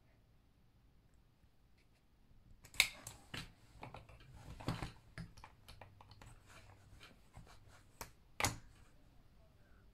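Plastic Meccano Junior construction-toy parts being handled and fitted together, with irregular sharp clicks and clacks and some rustling. The sound starts about two and a half seconds in, and the sharpest clicks come about three seconds in and about eight and a half seconds in.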